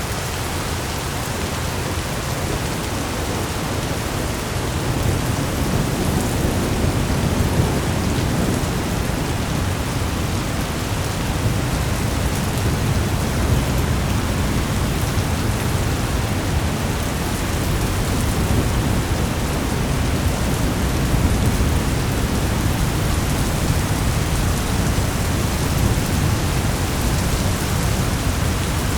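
Steady heavy rain with a low rumble of thunder that swells up about four seconds in and rolls on.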